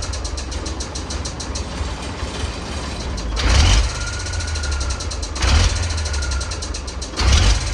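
Ford D-series 1314 truck's turbocharged diesel engine idling with a steady rumble and fine rapid clatter. Three loud rushing bursts come about two seconds apart, each followed by a faint whistle.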